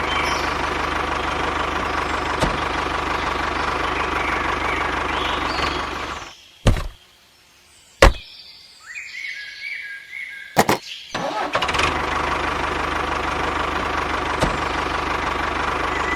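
A steady engine-like running noise with a low regular chugging pulse. It cuts out about six seconds in and comes back around eleven and a half seconds. In the gap there are a few sharp clicks.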